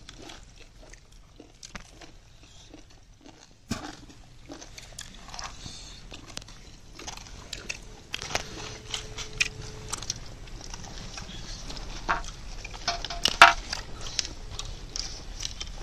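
Close-up chewing and biting on roasted tandoori chicken, with irregular small crunches and clicks. The loudest crunch comes about thirteen seconds in.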